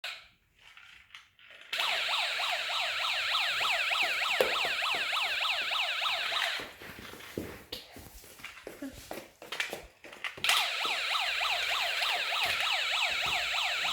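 Toy BMW police car's electronic siren sounding a fast yelping wail that rises and falls several times a second. It stops for a few seconds around the middle, leaving a few clicks and knocks, then starts again.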